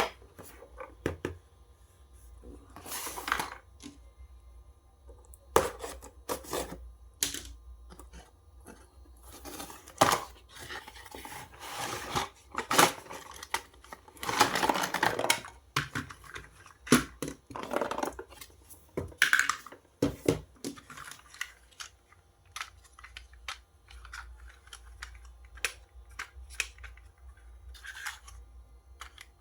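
Toy packaging being handled and opened: scattered clicks, scrapes and short tearing sounds, with a longer stretch of rustling and tearing about halfway through.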